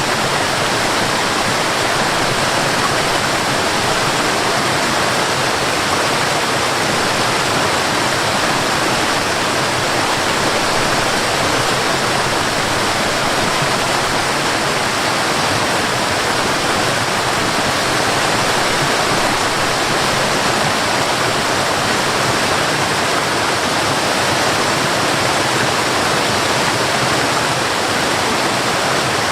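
Waterfall rushing steadily, an even wash of water noise with no surges.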